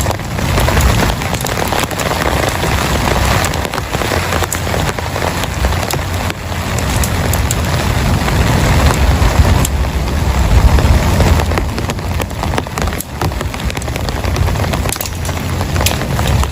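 Heavy rain falling on a surface, a dense hiss with many sharp individual drop hits and a steady low rumble underneath.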